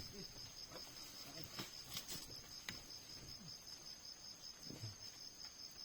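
Insects chirring steadily in a high, even drone, with a few faint knocks.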